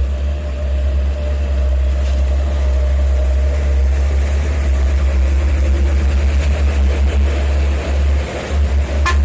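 Diesel engine of a loaded dump truck running with a steady low rumble. A brief sharp sound comes near the end.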